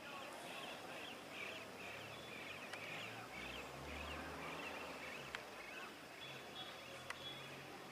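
Outdoor ambience with a small bird chirping over and over in short high notes, and three sharp clicks.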